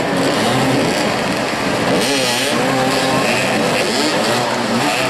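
Several motoball motorcycles revving and easing off as they move around the pitch, their engine notes rising and falling over one another.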